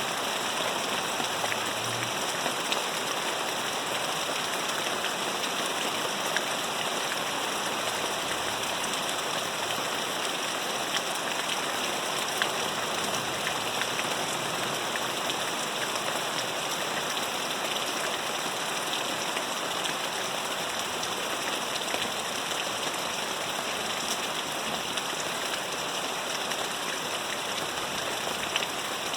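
Steady hiss of rain falling, with scattered small ticks.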